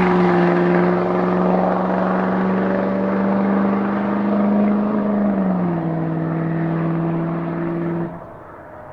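Turbocharged 6.6-litre Duramax V8 diesel in a Chevrolet Silverado running under power: one steady engine note that steps down in pitch just after the start and again a little past halfway, then cuts off sharply about a second before the end.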